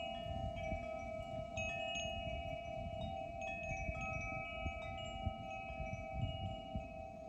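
Wind chimes ringing: overlapping metallic tones, one low pair held steadily while higher notes are struck now and then and ring on, over a low rumble of background noise.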